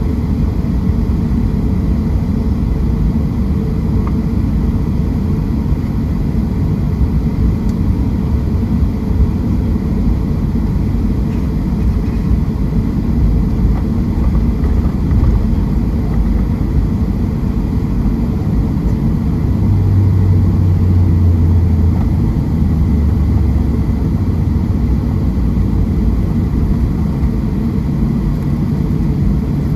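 Steady low rumble of a Boeing 737-700's CFM56-7B engines and airflow heard inside the passenger cabin, with a stronger low hum swelling for about two seconds roughly two-thirds of the way through.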